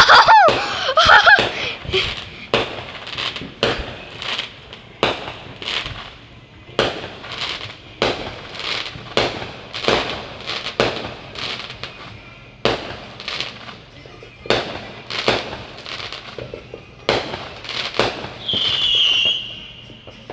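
Fireworks going off: a long run of sharp bangs, one or two a second, spacing out after about twelve seconds.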